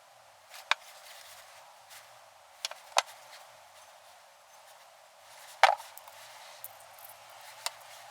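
A few sharp, separate clicks and knocks from tools or parts being handled during brake work, the loudest a little over halfway through, over a faint steady hiss.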